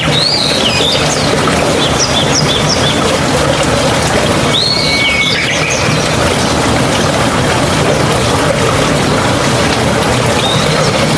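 A steady rush of flowing stream water, with birds calling over it several times: an arched call at the start, a run of short chirps after it, another call about five seconds in and one near the end.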